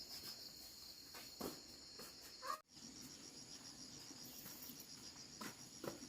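Crickets trilling steadily in a high, pulsing chirr, with a few faint knocks; everything cuts out for a moment about two and a half seconds in.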